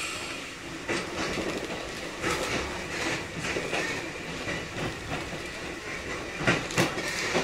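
Kotoden 1080 series electric train (the former Keikyu 1000 series) running, heard from inside the car: steady running noise with the wheels clacking over rail joints, a loud pair of clacks near the end.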